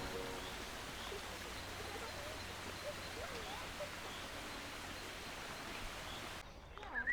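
Steady outdoor hiss of ambient noise with a few faint bird chirps; the hiss cuts off suddenly near the end.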